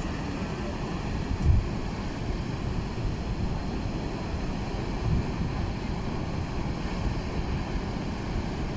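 Waterfall rushing: a steady, even roar of falling water, with two brief low thumps, one about a second and a half in and one about five seconds in.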